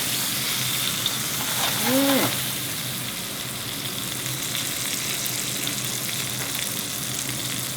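Marinated chicken pieces sizzling in a frying pan, a steady hiss as the freshly flipped side cooks. A short hummed vocal sound rises and falls about two seconds in.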